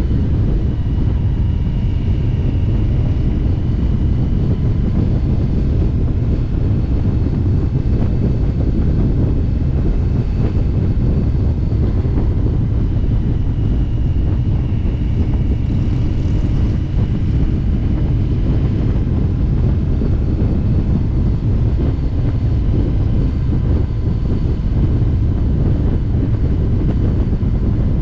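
Indian V-twin motorcycle running steadily at road speed on a group ride, with wind buffeting the microphone.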